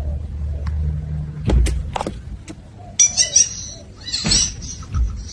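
A steady low hum with a few sharp clicks, then about three seconds in a parrot starts squawking and chirping in short high bursts.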